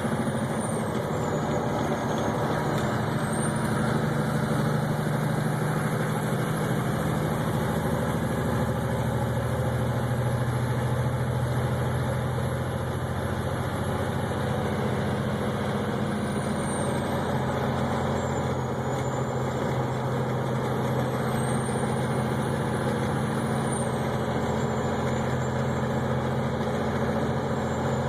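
Vehicle engine running steadily under road and tyre noise, heard from inside the cab while driving.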